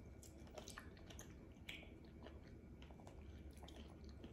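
Faint chewing of soft, juicy fruit by a woman and a toddler eating mango slices: scattered small wet mouth clicks and smacks, one a little louder about two seconds in.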